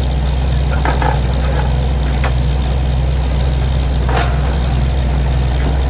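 Heavy diesel engine of a truck-mounted borewell drilling rig running steadily with a deep drone, with a few short sharp knocks over it.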